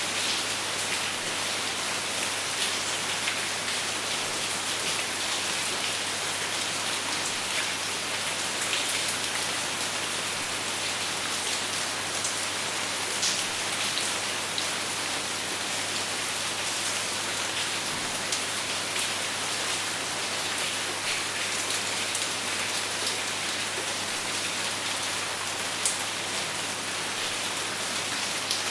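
Steady rain falling, with a constant hiss and scattered individual drops ticking on a surface, and no thunder.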